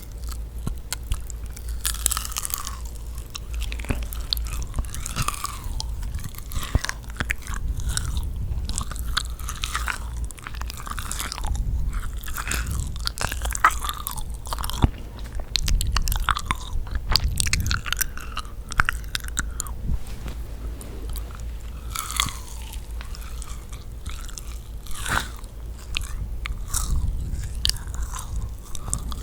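Close-miked eating of yakgwa, the chewy, sticky Korean honey cookie: repeated bites and chewing, with irregular crunchy clicks and wet, sticky mouth sounds.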